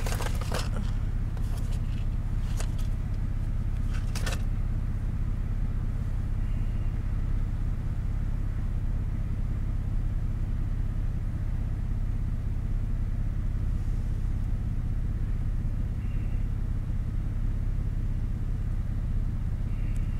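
Steady low rumble of a car's engine running, heard from inside the cabin. A few sharp clicks and rustles come in the first few seconds.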